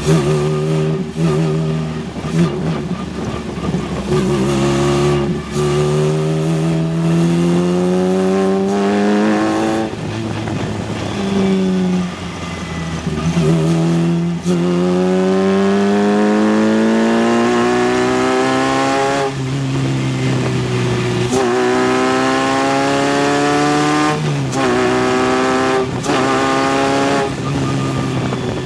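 Formula race car engine accelerating hard through the gears: the pitch climbs steadily and drops sharply at each gear change, over and over.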